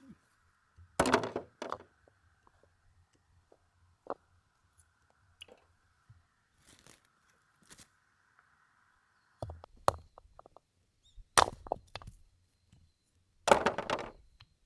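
Firewood being split by hand: four loud chopping blows with the wood cracking, one about a second in and three in the last five seconds, with lighter knocks of wood pieces between.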